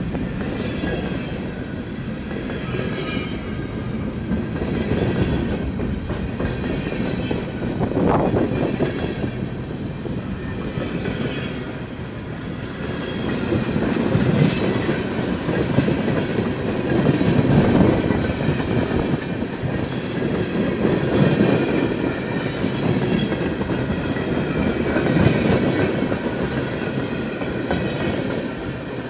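CN freight train's cars rolling past, wheels clicking over rail joints in a steady rumble that swells and eases, with a faint high wheel squeal.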